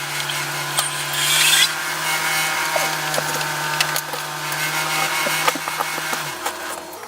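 DeWalt battery-powered tool running steadily while working through wood, with cracks and snaps from the wood; the motor stops about six seconds in.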